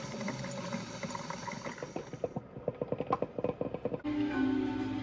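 A quick run of small sharp mechanical clicks, coming faster and faster, then music begins about four seconds in.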